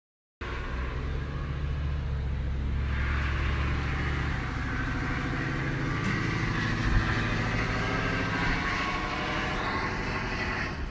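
Car engine running with a steady low hum, and a rushing hiss that rises about three seconds in.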